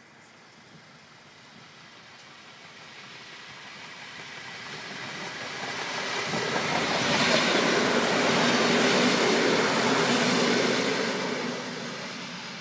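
A train passing by on the rails: its noise builds steadily, is loudest about eight to ten seconds in, then begins to fade.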